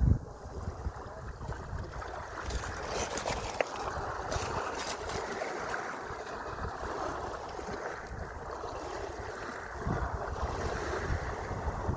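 Sea waves washing steadily, with low gusts of wind buffeting the microphone just at the start and again about ten seconds in.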